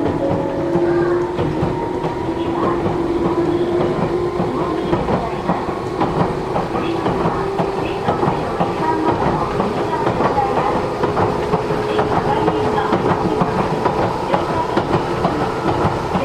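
Matsumoto Electric Railway 3000 series electric train running, heard from inside the car: a steady rumble with a humming tone that slowly rises in pitch, over rapid clicking and rattling from the wheels on the track.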